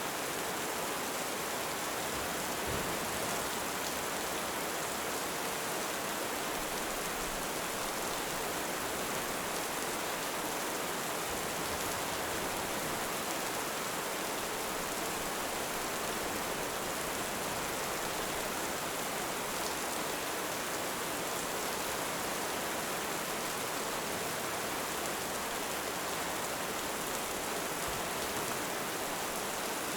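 Heavy rain falling steadily, an even, unbroken hiss with no thunder or swell of waves.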